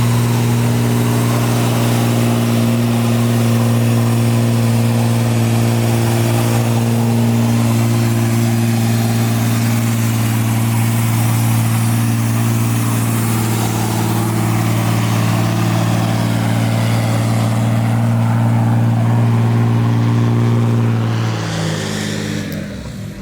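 A car or truck engine held at steady high revs for about twenty seconds, with a loud hiss over it. Near the end the revs drop and the sound fades away.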